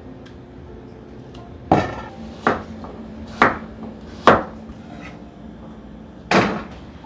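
Kitchenware knocking and clattering: five separate sharp knocks, unevenly spaced, each with a short ring after it.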